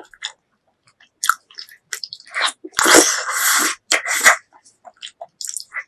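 Close-miked chewing and lip-smacking on braised pork leg, with scattered short wet clicks. About three seconds in comes a loud noisy burst lasting about a second, the loudest sound here.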